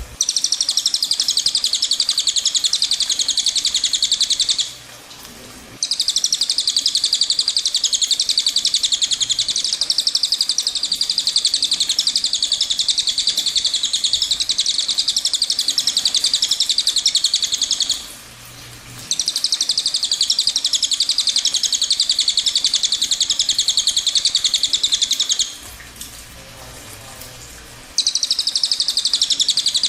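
Cililin bird singing long, very rapid, high-pitched rolling trills (ngerol panjang), each held for many seconds and broken by three short pauses.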